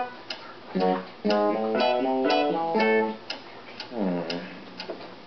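Acoustic guitar music playing a short phrase that stops about three seconds in. Clock-like ticking follows, a tick roughly every half second.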